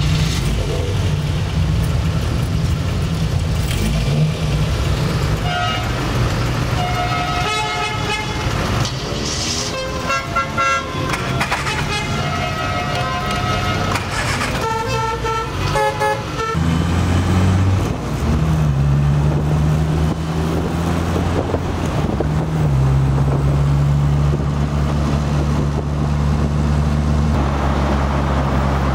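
Lotus Elan's twin-cam four-cylinder engine running, heard from inside the cabin, while several car horns toot repeatedly at different pitches from about five seconds in for some ten seconds. After that the engine pulls away under load, its note holding steady and shifting a few times as it goes up through the gears.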